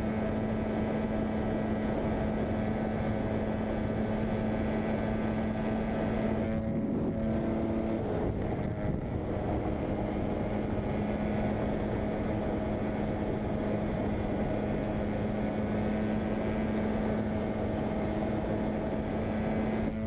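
A 250 cc dirt bike engine held at high, steady revs in top gear, flat out, with a constant note that briefly changes about seven seconds in before settling back. The sustained full-throttle run is the kind the reactor fears will need a new top end.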